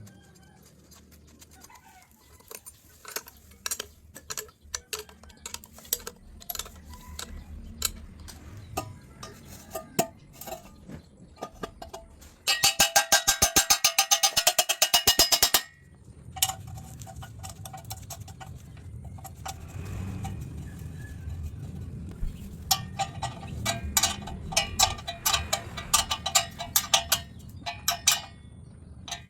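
Tools knocking and clinking on metal, with a loud burst of rapid, evenly spaced strokes lasting about three seconds near the middle.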